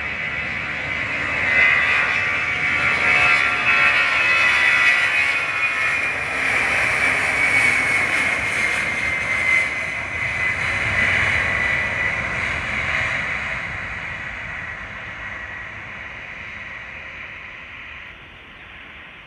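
Jet airliner's engines passing close by, loudest within the first few seconds and then fading steadily away. A high engine whine slides slightly down in pitch as it recedes.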